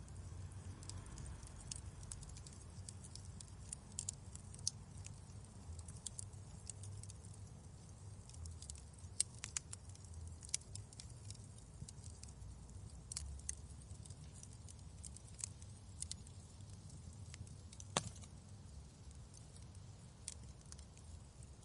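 Wood fire crackling in a fireplace: irregular sharp pops and snaps over a steady low rumble of flames, with one louder pop about eighteen seconds in.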